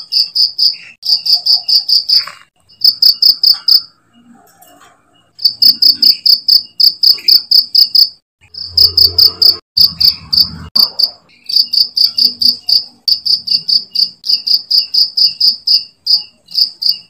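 Cricket chirping: a rapid train of high, clear pulses, about seven a second, in runs of one to three seconds with short breaks, and a longer pause about four seconds in.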